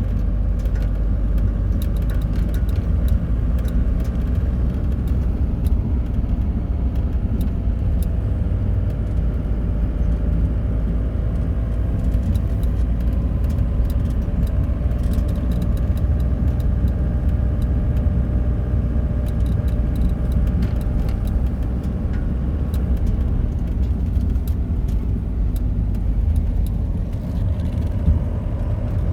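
Steady low rumble of a car on the move, the road and engine noise heard throughout.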